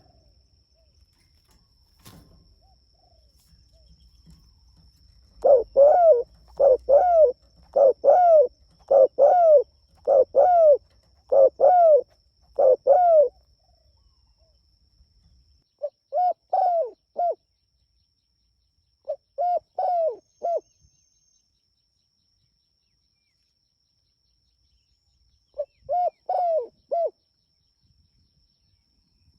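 Spotted dove (tekukur) cooing: a run of about eight loud coos a little over a second apart, then shorter phrases of three or four coos with pauses between.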